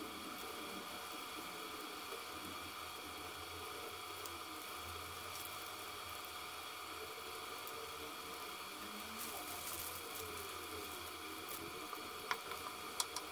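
Battered eggplant slices shallow-frying in oil in a stainless steel pan, a soft steady sizzle. Near the end a few sharp clicks of the wooden spatula against the pan as the slices are moved.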